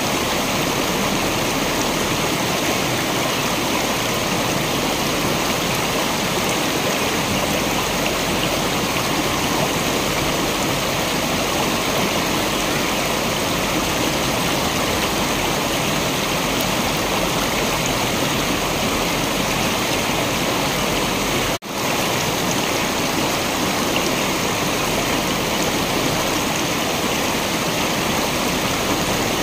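Waterfall: steady, dense rushing of falling water, with one split-second drop-out about two-thirds of the way through.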